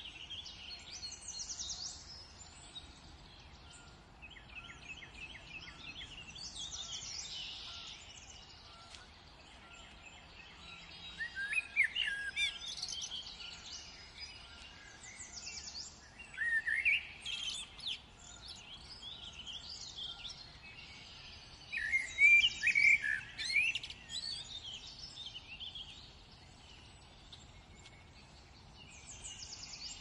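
Songbirds singing. Loud warbled phrases of a couple of seconds each come a few seconds apart, over fainter, fast, high trills from other birds.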